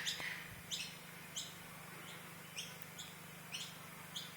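Birds chirping: short, sharp high-pitched chirps, each dropping in pitch, repeated irregularly about once or twice a second.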